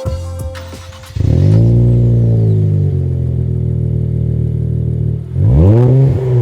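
Nissan Z's 3.0L twin-turbo V6 through an MBRP 3-inch cat-back dual rear exit exhaust: fires up about a second in with a flare of revs, settles into a steady idle, then gives a quick rev blip near the end.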